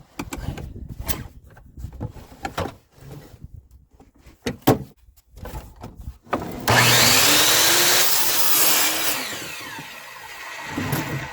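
Knocks and clicks of boards being handled, then about six and a half seconds in an electric power saw spins up and cuts through a wooden board for about three seconds, its motor tone rising and then falling as it winds down.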